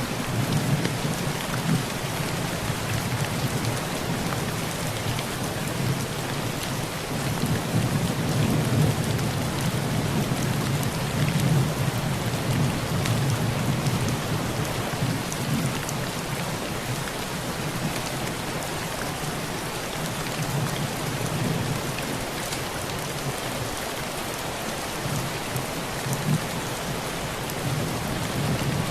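Heavy rain drumming steadily on a tin roof, with individual drops ticking on the metal, while thunder rumbles low underneath, swelling in the first couple of seconds and again for several seconds starting about seven seconds in.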